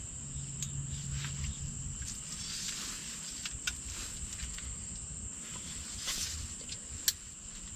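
Insects trilling steadily in a high, even pitch over quiet field ambience, with a few sharp clicks, one about three and a half seconds in and a louder one near the end.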